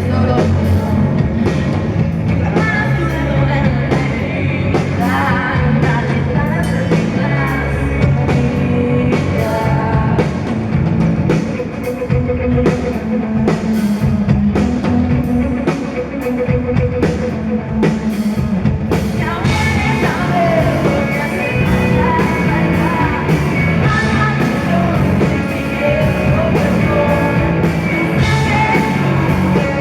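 Rock band playing live, with drums and a woman singing over the band.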